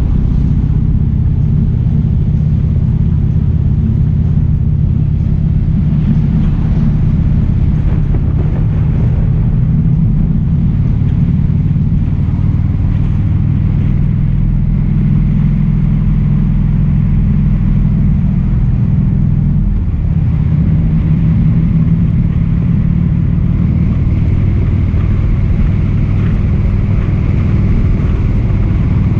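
Motorcycle engine running steadily under way, a loud continuous low rumble, with a brief dip in level about twenty seconds in.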